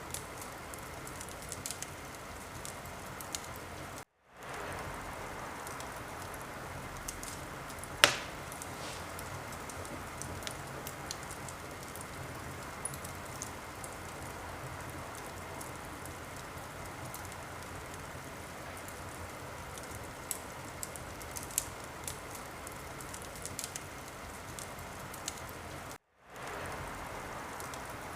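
Wood fire in a fireplace crackling over a steady hiss, with scattered small pops and one loud pop about 8 seconds in. The sound cuts out briefly twice.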